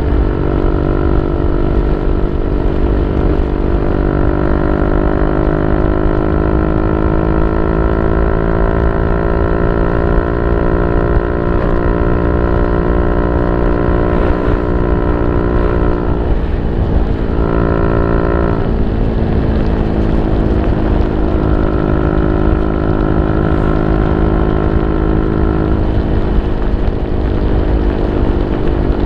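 Yamaha Y15ZR's 150cc single-cylinder four-stroke engine running through an aftermarket YYPANG exhaust, a steady drone whose pitch drifts slowly up and down, with a brief shift in pitch a little past the middle.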